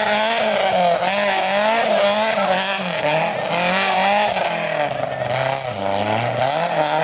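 Rally car engine revving hard under throttle, its pitch rising and falling about once a second, then settling to a steadier, lower note near the end.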